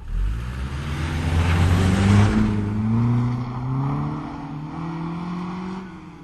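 Car engine accelerating, starting suddenly loud with a burst of noise and climbing steadily in pitch, the level peaking about two seconds in and then slowly easing.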